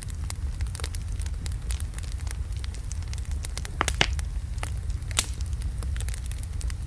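Log fire burning in a fireplace: frequent sharp crackles and pops of burning wood over a steady low rumble. The loudest pops come about four seconds in and again a second later.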